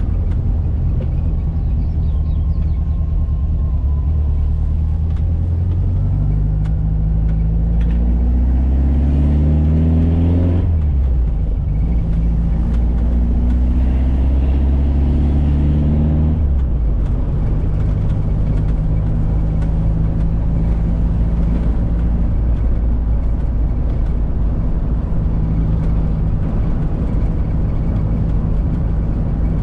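1985 Volkswagen Fusca's air-cooled flat-four engine pulling the car along: the engine note climbs twice as it accelerates, dropping back at each upshift, about ten and sixteen seconds in, then settles into a steady cruise.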